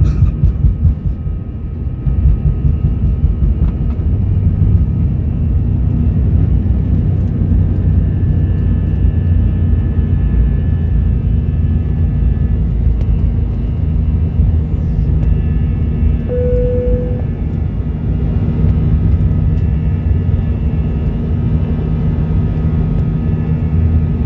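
Airbus A321-200 engines and airflow heard inside the cabin as a loud, steady low rumble. A steady hum strengthens about fourteen seconds in, and a short single tone sounds a couple of seconds later.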